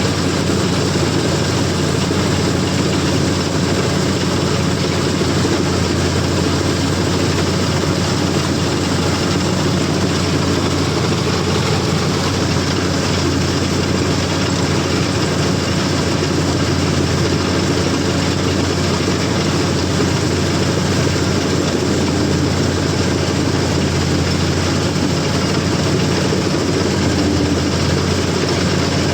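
CLAAS combine harvester running at working speed, a loud, steady engine note that does not change pitch.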